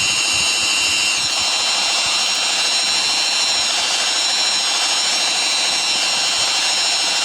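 Samsung Ecobubble washing machine on its spin cycle at 1200 rpm, the drum spinning fast: a steady high motor whine of several tones over a constant rushing hum, the pitch wavering slightly now and then.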